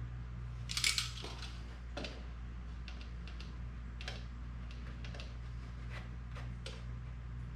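Light handwork on a trimmed plastic body: a short scrape about a second in, then scattered light clicks and taps. A steady low hum runs underneath.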